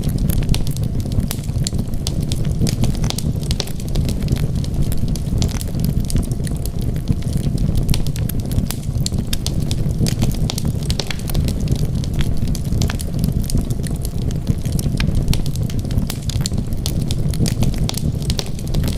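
Wood fire burning with a steady low rumble and frequent, irregular crackles and pops.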